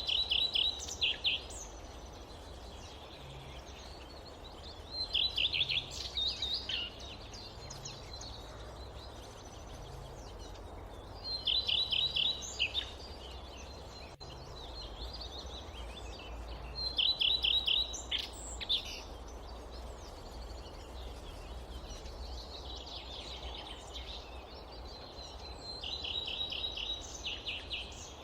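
A songbird repeating a short phrase of quick, evenly spaced high notes, six times, about every five to six seconds, over steady low forest background noise.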